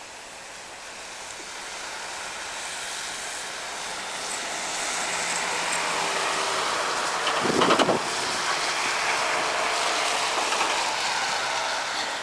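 Steady rushing noise of a passing vehicle, building over a few seconds and then holding, with a brief thump on the microphone about seven and a half seconds in.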